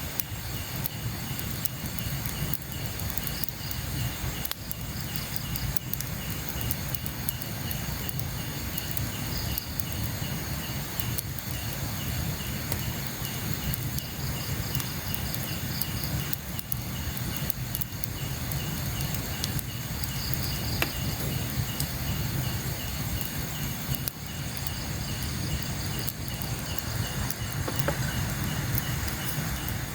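Night insects chirping in a steady pulsing trill, with a second, higher trill that comes and goes several times, over a low rumbling background and scattered faint ticks.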